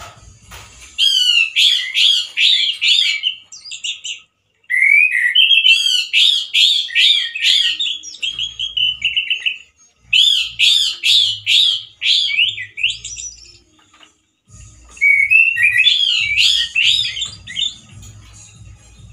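Male orange-headed thrush singing loudly in four phrases of rapid notes that glide up and down, with short pauses between the phrases.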